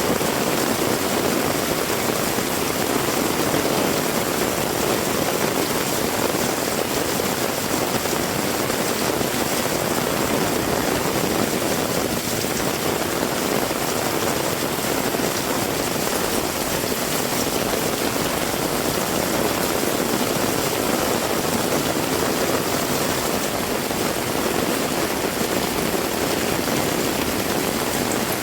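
Heavy rain falling steadily, an even downpour with no let-up.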